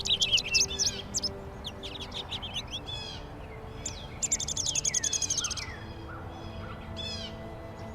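Small songbirds chirping and calling, with one fast, high trill that lasts about a second and a half midway.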